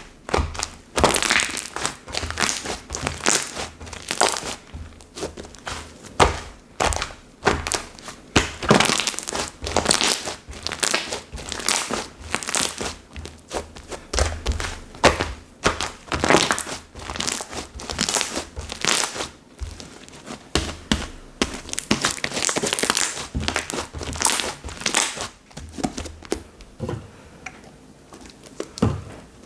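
Hands kneading, pressing and stretching a 'seureureuk' slime that was left sitting out for a day, making an irregular stream of short crackles and pops. It goes quieter a few seconds before the end.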